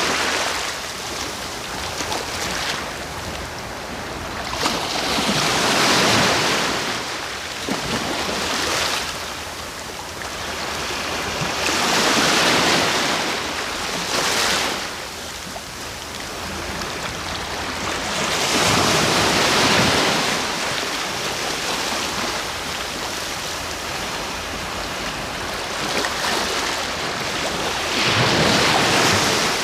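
Sea waves breaking and washing on the shore, a rushing swell about every six seconds that then eases back.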